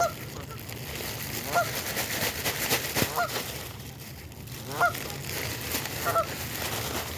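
Birds calling, about five short calls spaced roughly a second and a half apart, over a steady noisy background.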